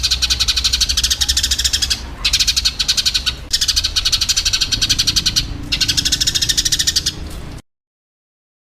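Sparrows (burung gereja) chattering in fighting calls: a dense run of rapid chirps, about ten a second, in phrases with short breaks. It cuts off abruptly near the end.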